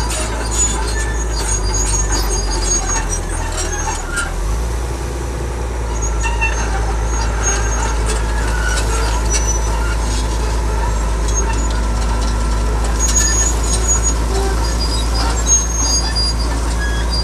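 Heavy diesel earthmoving machinery spreading gravel: a steady low engine drone that shifts in pitch about four seconds in, with scattered short high squeaks and clinks over it.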